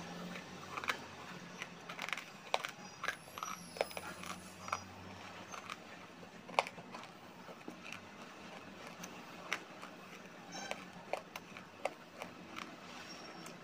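Close-up mouth sounds of chewing crunchy baked clay (mitti): irregular sharp crunches and clicks, several a second at times, over a faint low hum.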